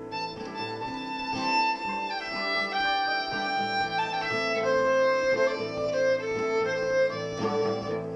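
Fiddle playing a melody over a guitar accompaniment, in A minor moving to F and G.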